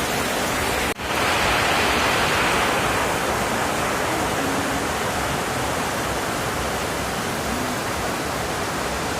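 Heavy rain falling steadily: a dense, even hiss. It breaks off briefly about a second in, then carries on.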